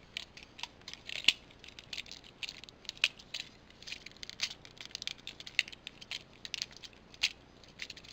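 Irregular small plastic clicks and clacks as the parts of a Transformers Robots in Disguise 2001 Rail Spike toy are pulled apart and moved, several a second with short pauses between.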